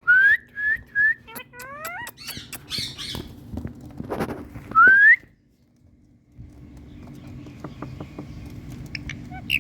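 Indian green parrot squawking: three short rising shrieks at the start, then chattering, and one loud rising screech about five seconds in. After a brief pause come softer clicks and chatter over a steady low hum.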